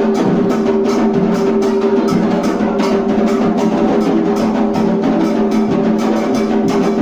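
Hand drums, such as the atabaques of an Afro-Brazilian ritual, beating a fast, steady rhythm of about four strokes a second over a steady held tone.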